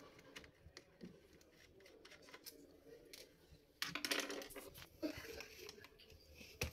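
Small plastic and metal parts of a laptop being handled during disassembly: light scattered clicks, then a denser clatter of clicks and rattles about four seconds in.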